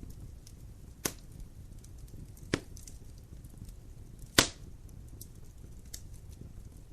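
Wood fire crackling in a fireplace: three sharp pops, about a second in, midway and past four seconds, the last the loudest, with fainter small ticks over a low steady rumble of the flames.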